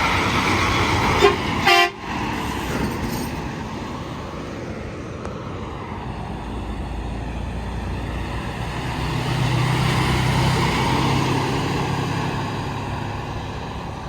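Interstate traffic passing at speed, tyres and engines of trucks going by. A short horn toot sounds just under two seconds in, and a truck's engine drone swells as it passes from about nine to twelve seconds.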